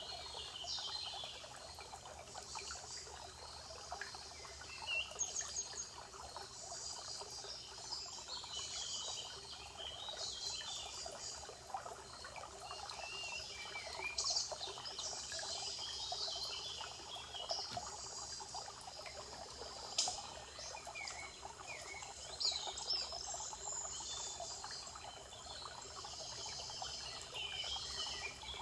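Many forest songbirds chirping and singing, their calls overlapping, over a steady rushing background noise like trickling water. Now and then a single call stands out louder.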